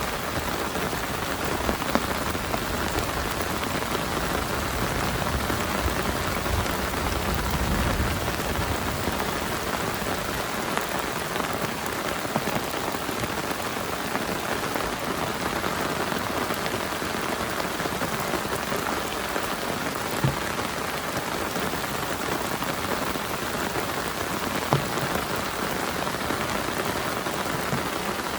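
Heavy rain falling steadily on a camp shelter. A low rumble underneath dies away about eight seconds in, and two single sharp drop hits stand out later.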